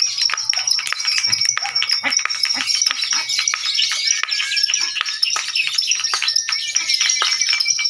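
Lovebirds chattering in ngekek song: a long, unbroken stream of rapid, high-pitched chirps and trills, with a few held whistled notes mixed in.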